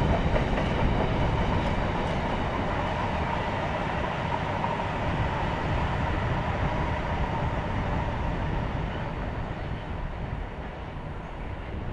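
Container freight train's wagons rolling past, a steady rumble and clatter of wheels on rail that fades over the last few seconds as the last empty flat wagons go by.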